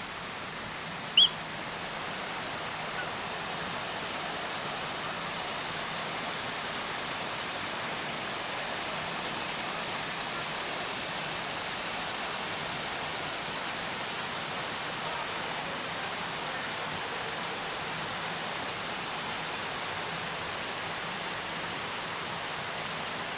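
Waterfall: a steady rush of falling water, with one short high chirp about a second in.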